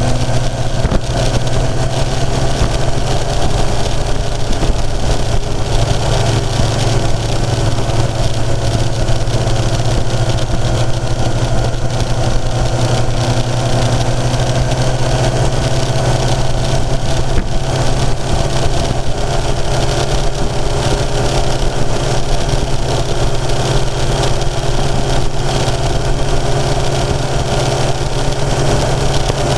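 Kawasaki motorcycle's inline-four engine pulling steadily at mid revs while riding, with wind rushing over the bike-mounted microphone.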